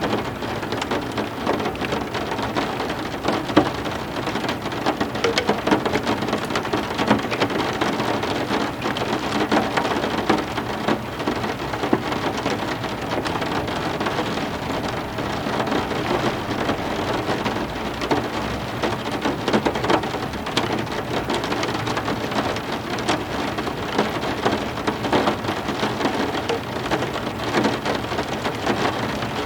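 Heavy rain falling steadily, a dense patter of drops striking hard surfaces.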